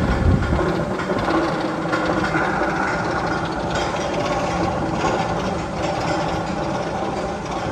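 A sound effect from the Magnum XL 200 roller coaster's tunnel: a steady train-like rumble and clatter, with a heavy low thump right at the start.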